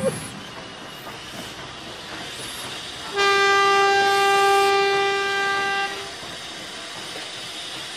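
Steam locomotive whistle blowing one long steady note of about three seconds, starting about three seconds in, over a faint steady hiss.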